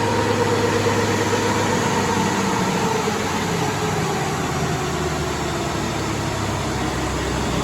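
Caterpillar C15 diesel in a Kenworth W900 running hard on a chassis dyno, a steady loud drone with its pitch easing down over the first few seconds as the dyno slows the truck and puts the load on.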